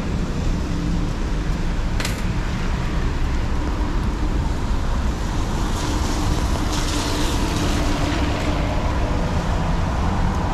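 Steady city street traffic: engine rumble and tyres on wet road. A passing vehicle's tyre hiss swells about six seconds in, and there is a single sharp click about two seconds in.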